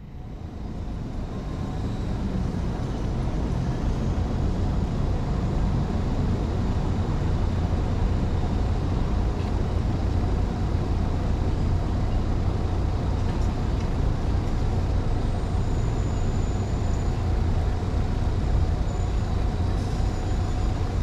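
On-board riding sound of a Honda 125 cc motorcycle: engine running with road noise, mostly a deep, steady rumble, fading in over the first few seconds.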